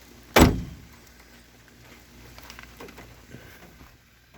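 One heavy thump, close by, then faint scattered clicks and rustles.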